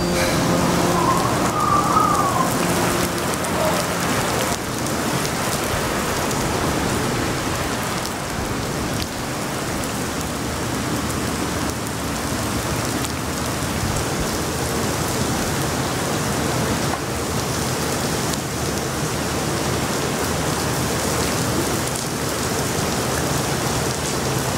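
Steady rain falling, a continuous even hiss. The last notes of music fade out in the first few seconds.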